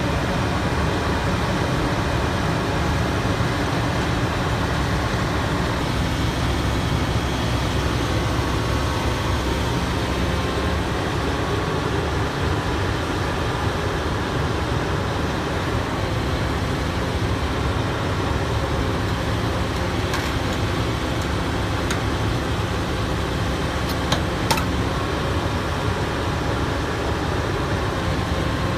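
Heavy diesel machinery engine running steadily, with a few short sharp clicks near the end.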